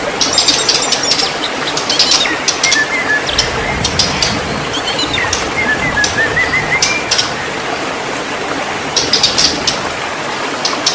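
White-rumped shama singing: bursts of quick, sharp high notes and short whistled phrases, with a brief pause about two-thirds of the way through, over a steady background hiss.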